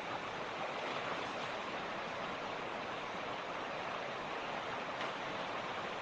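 Mountain creek running over rocks: a steady, even rushing of flowing water.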